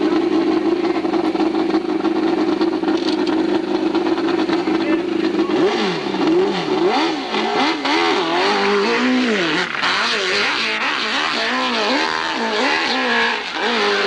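Hillclimb motorcycle engine running hard at high revs, its pitch held steady at first. From about six seconds in, the pitch swings up and down about once a second as the throttle is worked on the climb.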